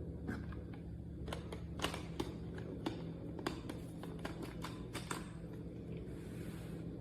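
Light, irregular clicks and taps, about a dozen of them, over a steady low hum.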